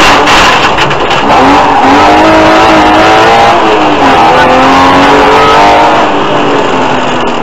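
BMW E36 325i's 2.5-litre straight-six rally engine heard from inside the car, accelerating hard. Rough gravel and tyre noise fills the first second, then the engine pulls up in pitch, drops with an upshift about three and a half seconds in, and pulls up again before easing off slightly near the end.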